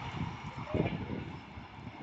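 Fading rumble of a double-deck Vivalto regional train moving away after passing through the station, with a few soft low knocks.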